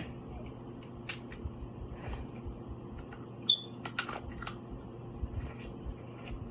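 Close-up eating sounds from a seafood boil: scattered sharp clicks and cracks, several of them about four seconds in, with chewing between.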